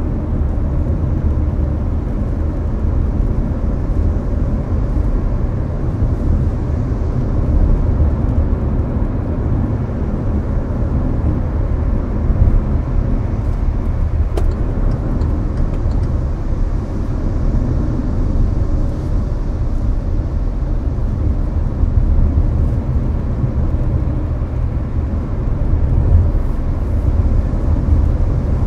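Hyundai Avante cruising on an expressway, heard from inside the cabin: a steady low rumble of road and engine noise, with the air conditioning blowing.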